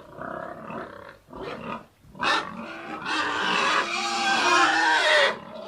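Pig giving short grunting calls, a sharp cry about two seconds in, then a long, loud squeal of about two seconds that breaks off shortly before the end.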